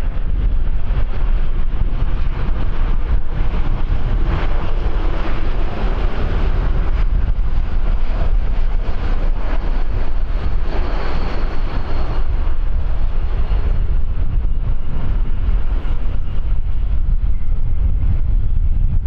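Wind buffeting the microphone over the steady rumble of an aircraft's jet engines, with a faint high whine about halfway through.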